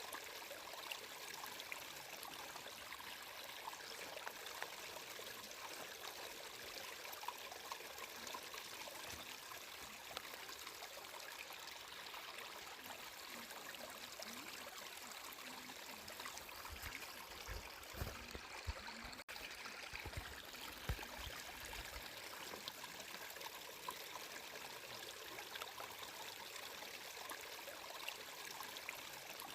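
Flowing water running steadily, with a short cluster of low thumps about two-thirds of the way through.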